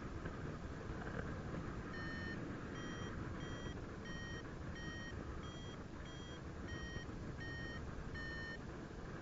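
Paragliding variometer beeping: about ten short beeps, a little over half a second apart, starting about two seconds in, their pitch shifting slightly from beep to beep. This is the vario's climb tone, the sign that the glider is rising in lift. Steady wind rush on the microphone runs underneath.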